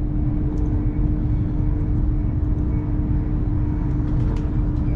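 Steady low rumble of a Hitachi Class 802 train running at speed, heard from inside the carriage, with a steady hum over it.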